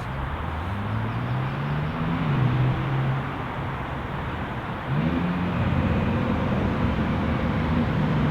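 Porsche 992 Carrera S twin-turbo flat-six accelerating: the engine note climbs in pitch, dips about three seconds in, then comes back louder with another rise in pitch about five seconds in.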